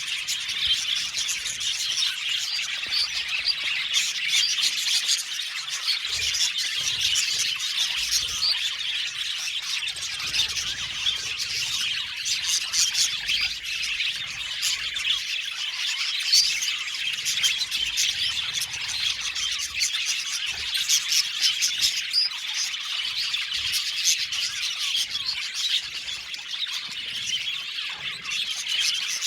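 A flock of budgerigars chattering, many birds chirping and squawking at once in a steady, dense mix.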